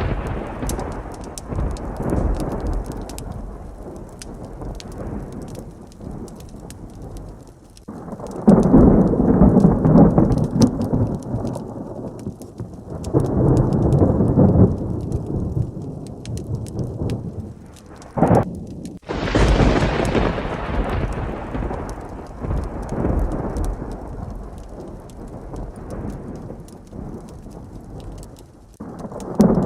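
Heavy rain with rolling thunder: several long low rumbles swell and fade, and a sharper thunderclap breaks about two-thirds of the way through and rolls away slowly. Light ticks of rain run underneath.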